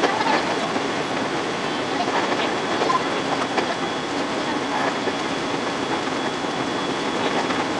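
Running noise of a 521-series electric multiple unit heard from the front car: a steady rumble and hiss of the train under way, with many small rapid clicks from the wheels on the track.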